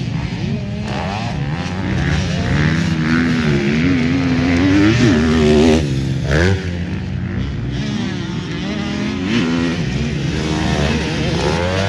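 Several motocross bikes racing, their engines revving up and down with overlapping rising and falling pitches.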